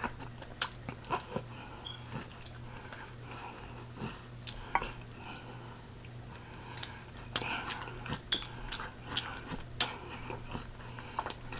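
Close-up chewing of sticky pig feet: scattered wet mouth smacks and clicks, with a steady low hum underneath.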